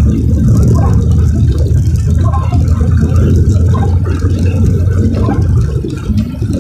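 Steady low rumble of car road and engine noise from inside the cabin while driving on a wet, rainy road.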